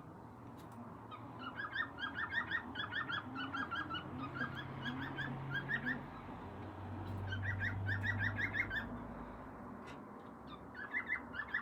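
Male cockatiel singing its courtship song: bouts of quick, repeated chirping notes, about five or six a second, broken by short pauses.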